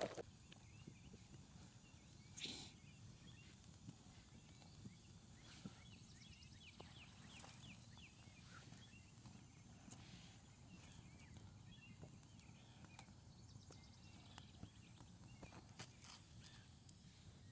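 Near silence: quiet woodland ambience with faint, quick chirps of distant small birds and a single soft knock early on.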